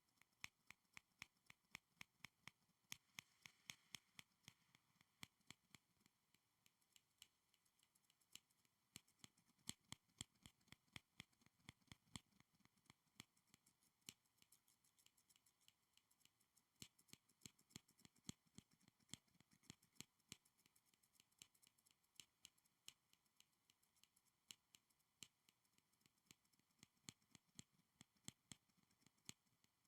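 Quiet, rapid, irregular sharp clicks and taps, several a second, from school supplies being handled and tapped close to the microphone.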